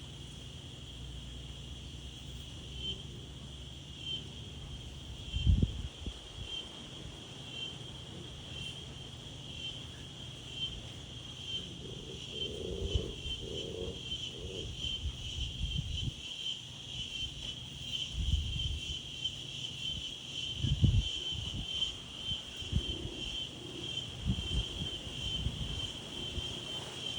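Insects trilling in a steady high chorus, while gusts of wind rumble on the microphone several times, strongest about five seconds in and again past the twenty-second mark.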